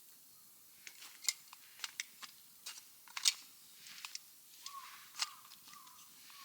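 Wood fire crackling in a Firebox stove: irregular sharp pops and snaps, a few of them loud. From about two-thirds of the way in, a bird calls several times in short, repeated notes.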